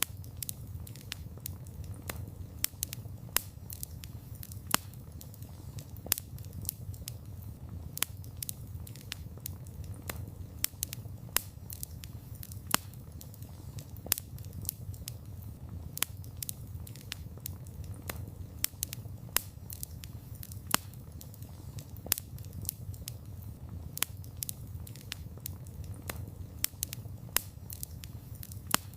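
Campfire of burning wood crackling, with many sharp irregular snaps and pops over a steady low rumble of the flames.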